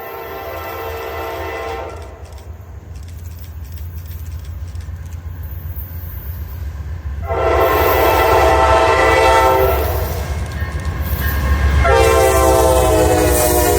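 A diesel locomotive's air horn blows a chord in three blasts: one ending about two seconds in, a long loud blast from about seven seconds, and another near the end. Under the horn runs the steady rumble of the passing train, with wheels clicking over the rail joints.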